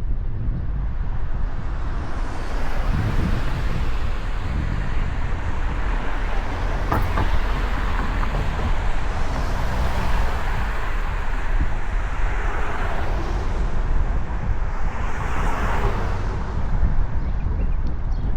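Steady wind rush and road noise on the microphone of a road bicycle riding along a road, with traffic noise mixed in. The noise swells briefly around the middle and again near the end.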